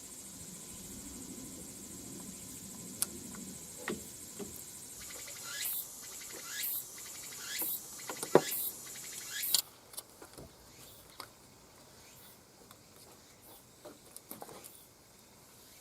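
Hand-tool work on a car: scattered sharp metallic clicks and knocks, with a run of short rasping strokes about once a second in the middle, the loudest knock just after the eighth second.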